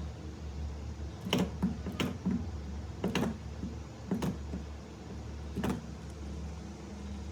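A run of about six sharp clicks or snaps at uneven intervals, over a steady low hum.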